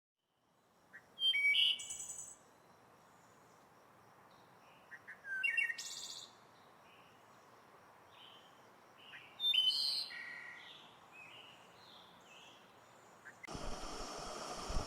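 Small songbirds calling in the open: three louder chirping phrases a few seconds apart, with fainter chirps between. A steady hiss comes in near the end.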